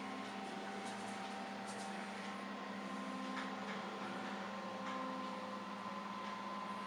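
Steady low hum with a hiss and a few faint ticks: room tone with an electrical or appliance drone.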